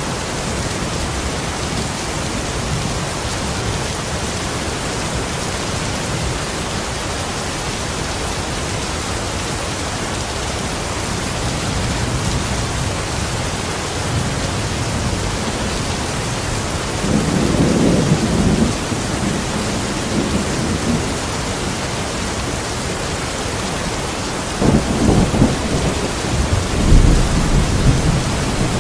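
Steady rain with thunder: two low rumbles swell over the rain, a short one past the middle and a longer, louder one near the end.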